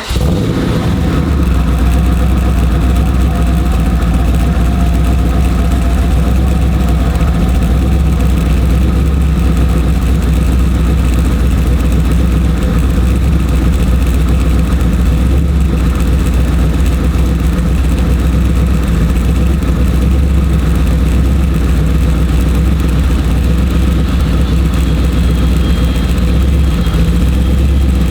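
1996 Chevrolet Camaro Z28 SS's 5.7-litre LT1 V8 idling steadily just after a cold start, with a deep, even exhaust note.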